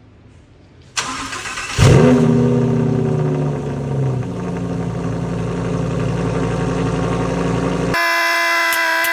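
Lamborghini Huracán Evo's V10 engine cranked and started after an oil change. It catches about two seconds in with a loud flare of revs that falls away over a couple of seconds to a steady high idle while it warms up. Near the end the sound cuts to a steady tone with regular ticks, about two and a half a second.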